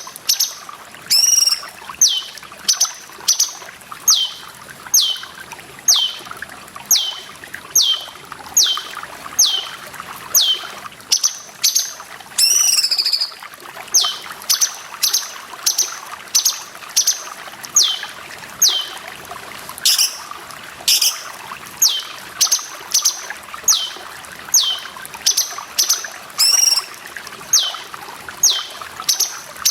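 Cucak cungkok calling over and over, each call a short whistle that slides down in pitch, about once a second. A few longer, more complex calls break in. Water trickles and pours steadily underneath.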